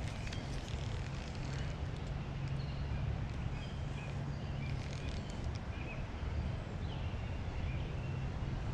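Steady outdoor background noise, an even rush with a low hum underneath, with faint short bird chirps now and then.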